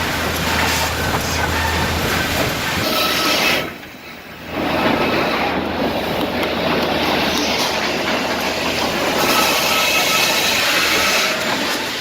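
Woodworking machinery in a pallet-component line running: boards moving on conveyors through cross-cut and rip saws, a steady dense mechanical noise with a faint saw whine. The noise drops briefly about four seconds in, then picks up again.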